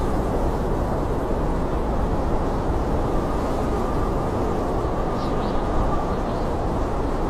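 Steady, low rush of blizzard wind, with a faint whistling tone coming in about five seconds in.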